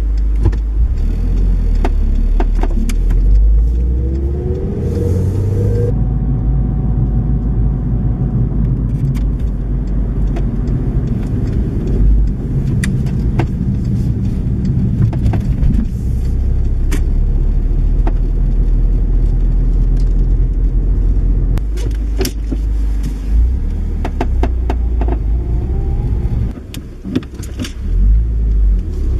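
2006 Volkswagen Polo GTI driving, with a steady low road and engine rumble and irregular sharp clunks and knocks from the front suspension, clustered in places: the noise of a failed lower control arm bushing.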